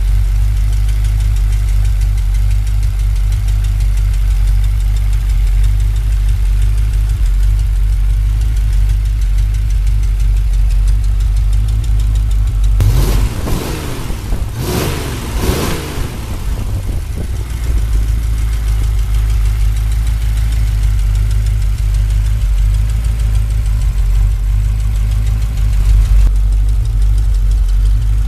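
1953 Ford 8BA flathead V8 running steadily at idle, a low even rumble. About halfway through, a brief rising and falling sound breaks in for a few seconds.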